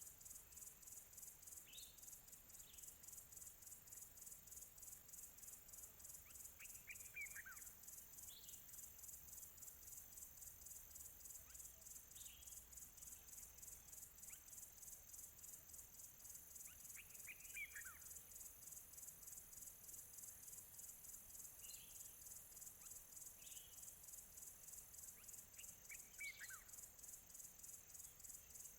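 Faint nature ambience: a steady, high, fast-pulsing insect chorus, like crickets, runs throughout. Over it a songbird sings a short falling phrase three times, about ten seconds apart, with scattered single high chirps between.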